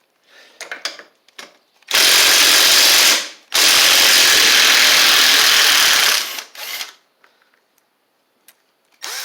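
Cordless power tool running in two bursts to loosen the starter mounting bolt on a lawn tractor: a burst of just over a second about two seconds in, then after a short pause a longer burst of about two and a half seconds. Light clicks of tools being handled come before and after.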